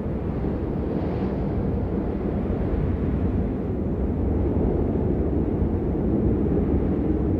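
Steady rain, heard as a dense, muffled hiss that is deep rather than bright, with no separate drops standing out.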